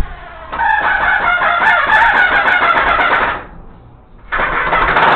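Rooster crowing loudly: one long crow of about three seconds, then a second crow begins near the end.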